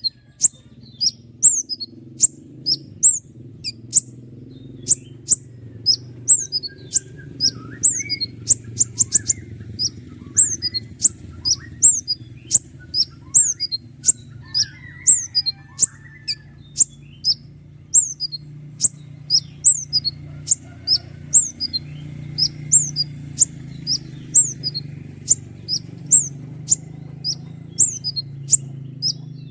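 Konin (ruby-cheeked sunbird) singing a long run of sharp, high notes, each dropping quickly in pitch, at about two a second without pause. Fainter, lower twittering joins in the middle, over a steady low hum.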